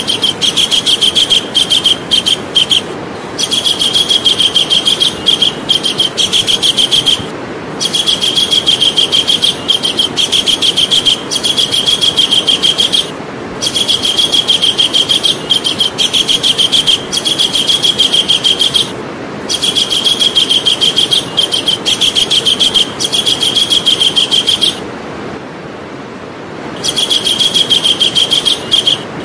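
Javan kingfisher calling: runs of fast, evenly repeated high notes, each a few seconds long, separated by brief breaks, with a longer pause about 25 seconds in. A steady hiss lies beneath.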